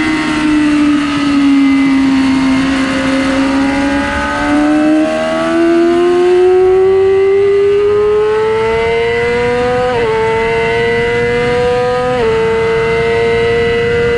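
2006 Yamaha R6's inline-four engine on track: revs drop over the first couple of seconds, hold low through a corner, then climb steadily under acceleration, with two quick upshifts near the end.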